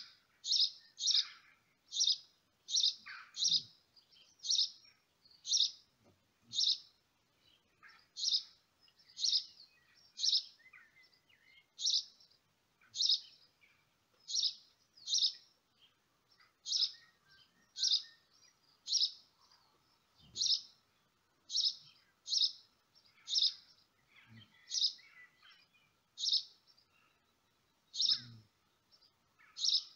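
A small bird chirping over and over, one short high note about once a second and sometimes two close together. A few faint low knocks come in between.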